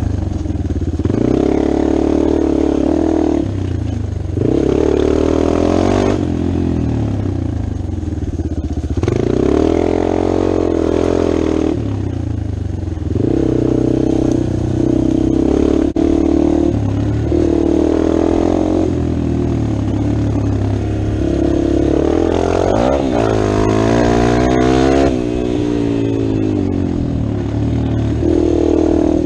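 Dirt bike engine being ridden, revving up and dropping back again and again every few seconds as the rider works the throttle and shifts gears.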